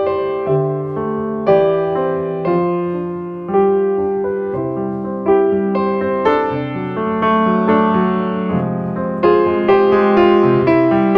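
Background piano music: a slow melody of struck notes that ring and fade, a new phrase beginning about every second.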